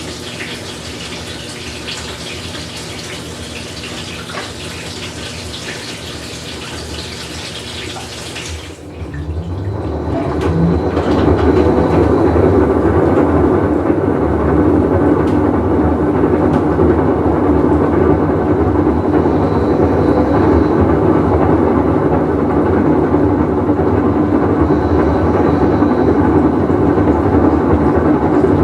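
Whirlpool Cabrio top-load washer filling with water, a steady hiss that shuts off about nine seconds in. Its tub then starts turning, a much louder, steady low running noise from the machine's bad bearing.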